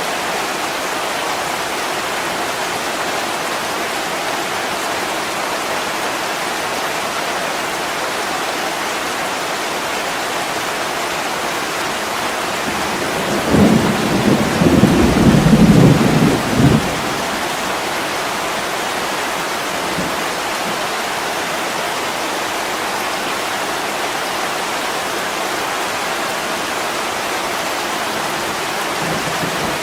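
Steady heavy rain on a window. About halfway through, a low rumble of thunder rolls in and fades after about three seconds.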